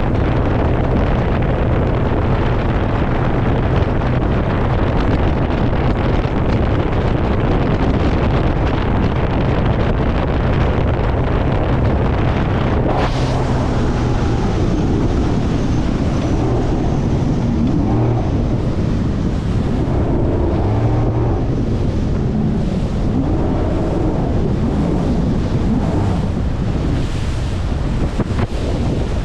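Wind buffeting the microphone over the wash of waves, with a steady low motor hum through the first part that stops about 13 seconds in.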